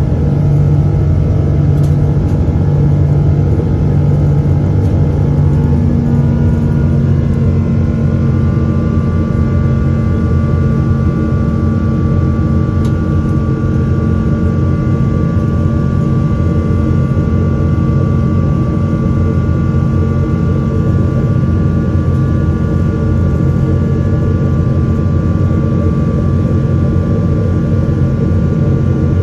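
Inside the cabin of a Boeing 777-200ER with Rolls-Royce Trent engines: a loud, steady rumble of engine and airflow with several whining engine tones over it. The tones shift to new pitches about six seconds in.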